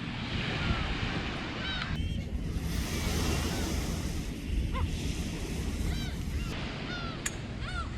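Sea waves washing on a beach, with wind buffeting the microphone and a few short chirps.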